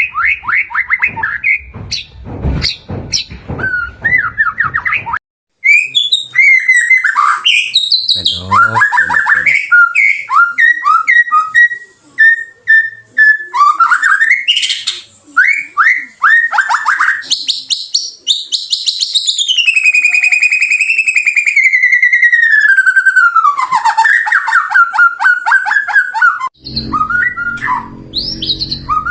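White-rumped shama (murai batu) singing a loud, varied song of rapid trills, whistled phrases and slurred notes. In the second half a long wavering whistle slides down in pitch. There is a brief gap about five seconds in, and a low rumble lies under the song at the start and again near the end.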